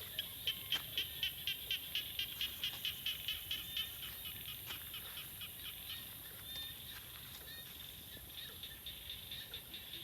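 An animal calling in a rapid, even series of short high notes, about four a second, loudest in the first few seconds and then fading, over a steady high hiss.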